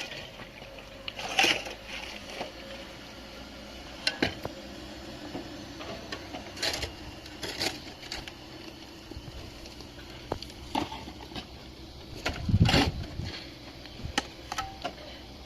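Scattered knocks and clatters of objects being handled, with one heavier thump about twelve and a half seconds in.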